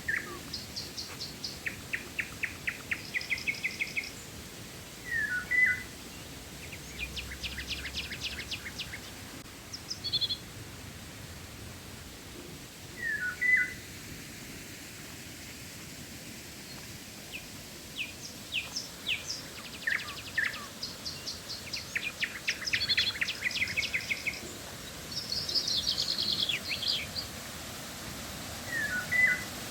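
Several wild birds calling: rapid high ticking trills repeated throughout, and a loud, short, sharp call three times, over an even hiss of flowing river water.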